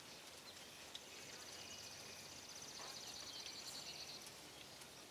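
Quiet outdoor background with a bird's rapid, high-pitched trill, starting about a second in and lasting about three seconds.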